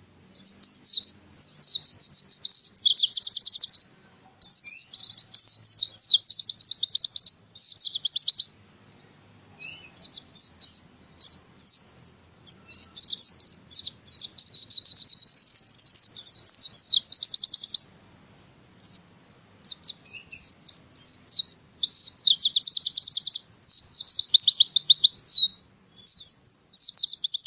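White-eye (pleci) singing hard, giving rapid, high-pitched chattering trills in phrases of one to two seconds, separated by short pauses.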